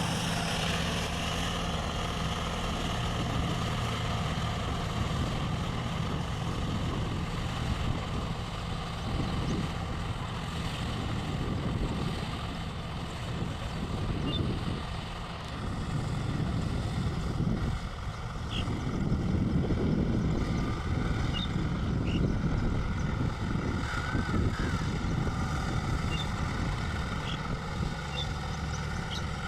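John Deere tractor's diesel engine running steadily under load, driving a Shaktiman rotavator through a flooded rice paddy to puddle the mud.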